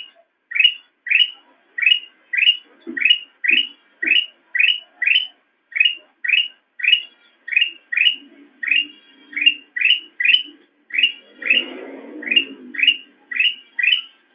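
Kutilang emas bulbul calling a short, sharp chirp over and over, about twice a second at an even pace, with a faint low rumble underneath about two-thirds of the way in.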